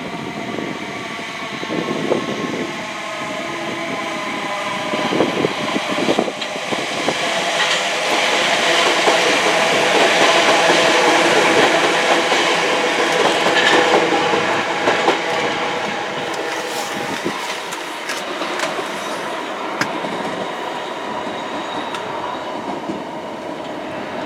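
A passenger train running past on the tracks, its sound building to a peak about halfway through and then easing off, with a steady whine of several tones and scattered wheel clicks over the rail joints.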